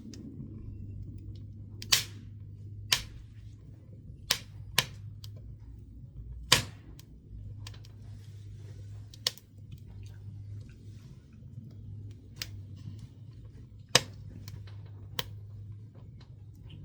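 Pine woodworking offcuts burning in a wood stove, popping and crackling irregularly with about nine sharp pops over a low steady hum.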